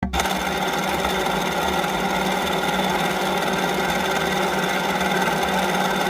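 Polaris 500 HO ATV's single-cylinder four-stroke engine idling steadily, with no revving.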